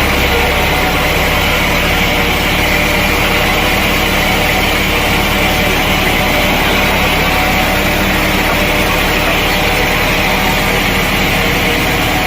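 Sawmill machinery running loudly and steadily: an engine-driven saw with a low hum under a constant high whine.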